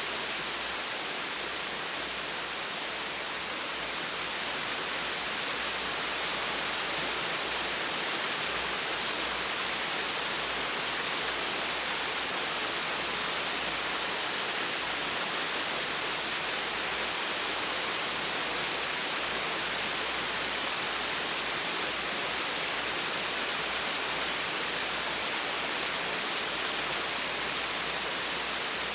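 Small waterfall splashing: a steady, even rush of falling water with no changes.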